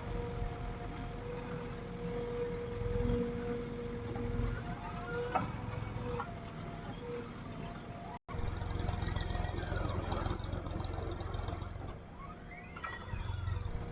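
Diesel engine of heavy earth-moving machinery running steadily, with a thin steady whine over the low rumble; the sound breaks off for an instant about eight seconds in, then resumes.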